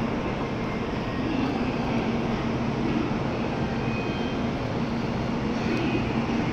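N700-family Shinkansen trains standing at the platform with their equipment running: a steady whooshing drone with a low, even hum underneath.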